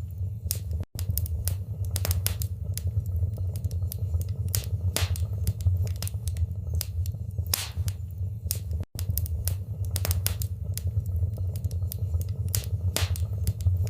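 Wood fire in a fireplace crackling and popping, with irregular sharp snaps over a steady low rumble. The sound cuts out for an instant twice, about a second in and about nine seconds in.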